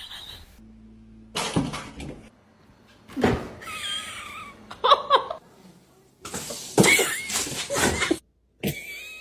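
A string of short bursts of pet sounds, animal calls with gliding pitch mixed with what may be people laughing, each starting and stopping abruptly.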